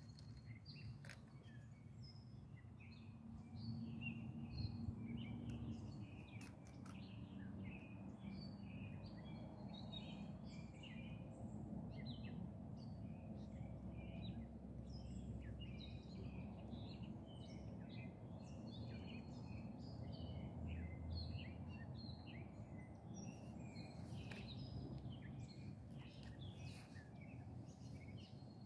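Songbirds chirping and calling in many short notes, over a steady low background rumble.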